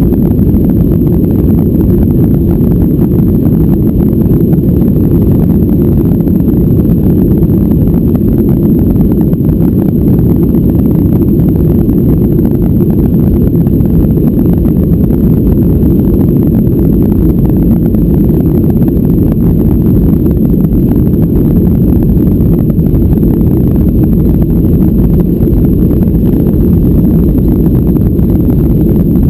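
Boeing 737-800 jet engines at high takeoff or climb thrust, heard from inside the cabin as a loud, steady, low roar that does not change.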